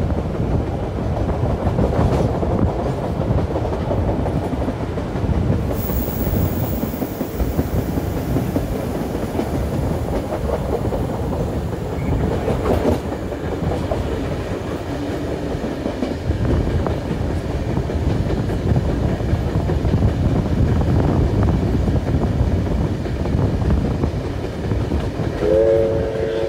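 Steam-hauled passenger train running behind NSW 59 class locomotive 5917, heard from on board: a steady rumble and clatter of the carriage wheels on the rails. Near the end the locomotive's chime whistle sounds briefly.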